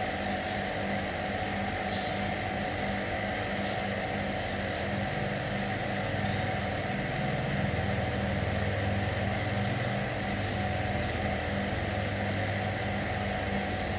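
A motor or engine running steadily, with a low drone that grows a little louder through the middle and then eases.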